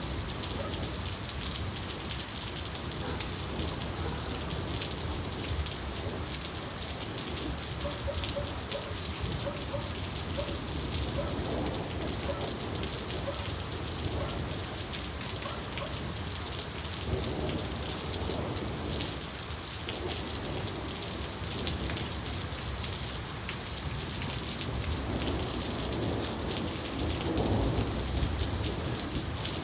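Steady rain falling, with many fine drop impacts, and low thunder rumbling underneath that swells near the end.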